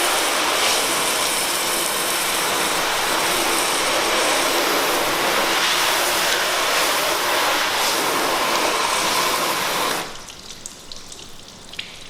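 Pressure washer spraying water onto a car's freshly coated paint: a steady hiss that cuts off suddenly about ten seconds in, followed by faint dripping.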